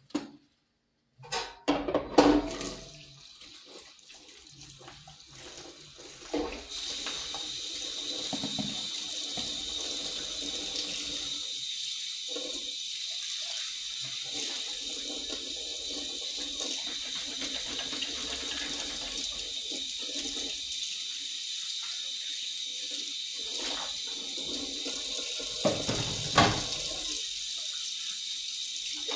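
Kitchen tap turned on about seven seconds in and running steadily into a sink. A few knocks and clatters come before it, and there is a single sharp knock near the end.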